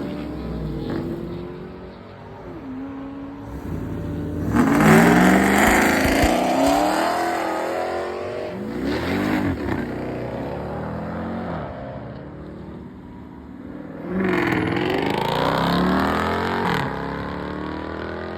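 Car engines revving and accelerating hard, loudest in three bursts about five, nine and fifteen seconds in, the pitch climbing and falling with each pull.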